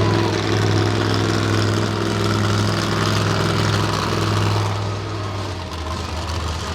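Monster truck engine running steadily with a low, even drone. Its pitch and level shift slightly about five seconds in.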